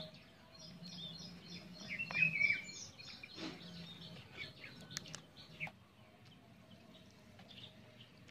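Small birds chirping: a quick run of short, high chirps repeated several times a second, then scattered calls that fade out after about six seconds. A few faint clicks and knocks come in between.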